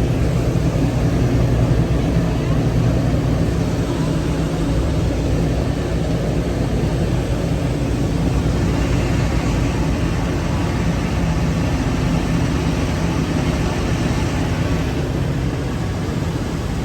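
Passenger river boat's engines running under way, heard on board: a steady low drone. A brighter hiss comes in about halfway through and fades near the end.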